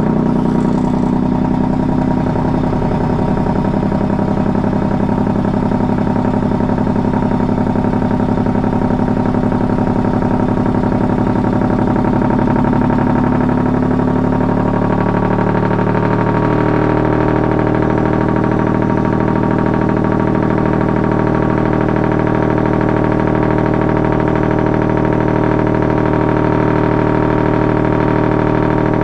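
A truck engine running steadily, its tone shifting about halfway through.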